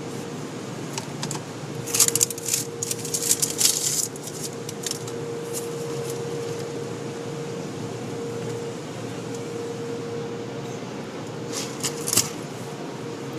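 Steady machine hum with one constant tone, broken by a flurry of sharp clicks and rattles about two seconds in and a shorter burst near the end.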